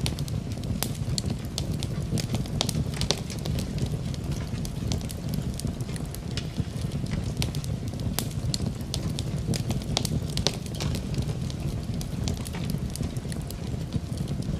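Wood fire crackling in a fireplace: a steady low rumble of flames with frequent irregular sharp pops and snaps. Rain may be blended in underneath.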